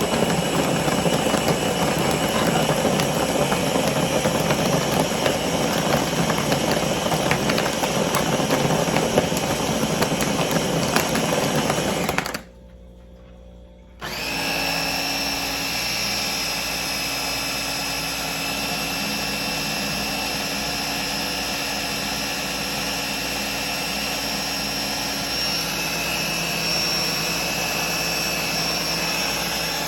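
Electric blender running on fruit, milk and shaved ice for a shake. It cuts out for about a second and a half near the middle, then runs again with a smoother, steadier tone.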